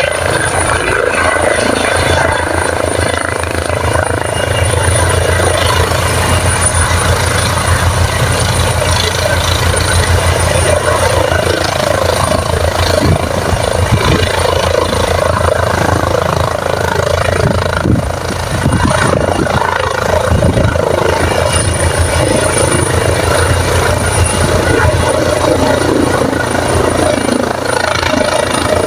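Helicopter running loudly and steadily, its rotor beating rapidly over the engine, with a thin high whine held throughout.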